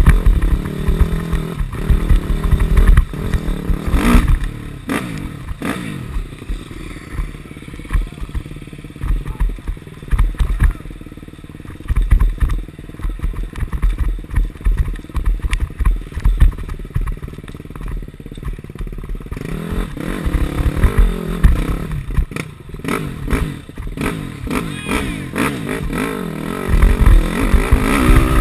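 KTM 250 SX-F dirt bike's single-cylinder four-stroke engine revving and easing off as it is ridden off-road, with frequent clattering knocks. The revs drop low for a long stretch in the middle and pick up again near the end.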